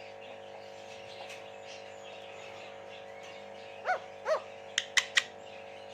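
Pet parrot giving two short chirps about four seconds in, followed quickly by three sharp high clicks, over a steady low hum.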